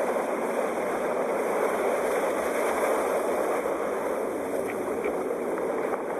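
Sea waves washing in a steady, even rush of surf.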